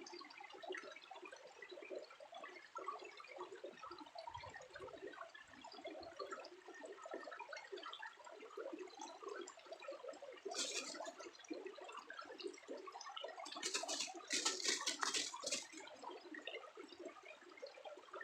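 Water trickling and dribbling in a continuous, crackly patter, with a brief louder rush of noise about ten seconds in and a few more between about fourteen and fifteen seconds.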